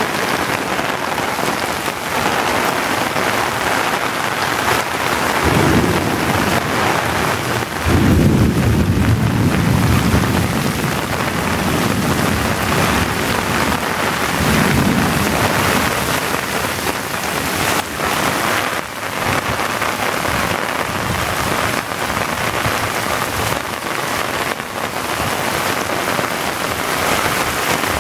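Torrential rain pouring onto a flooded street: a dense, steady hiss of rain on standing water and pavement. Deep low rumbles swell up about six, eight and fifteen seconds in.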